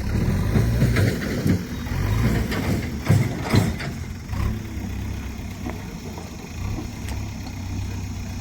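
An engine running steadily at low speed, with two sharp knocks a little past three seconds in.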